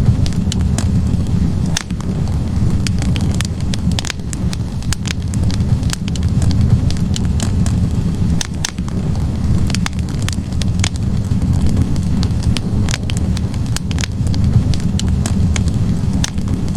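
Wood fire in a fireplace burning steadily, with a low rumble of flames and frequent irregular sharp crackles and pops from the burning logs.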